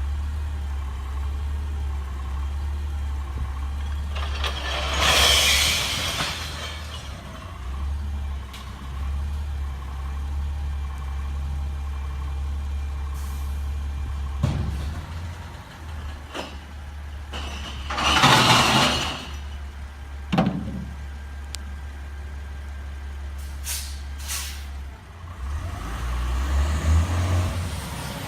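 CNG garbage truck idling with a steady low rumble, broken twice by a loud rushing burst lasting about two seconds, once about five seconds in and again about eighteen seconds in, with a few short sharp knocks in between.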